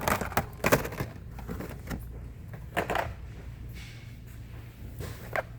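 Scattered clicks, knocks and rustles of blister-packed diecast toy cars and their packaging being handled, over a low steady hum.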